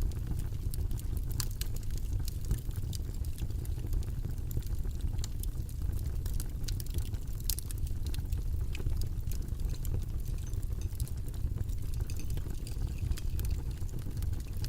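Steady, deep rumbling background noise from a white noise track, with many faint, irregular light clicks scattered through it.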